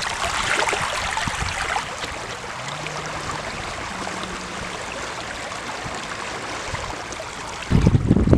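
River water running steadily, with a few loud low bumps near the end.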